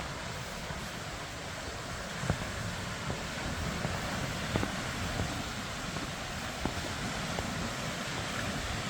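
Steady wind, with faint light ticks about once a second.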